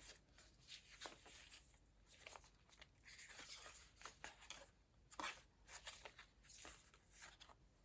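Faint rustling and soft taps of paper pages and a fold-out being handled in a handmade junk journal, the most distinct tap about five seconds in.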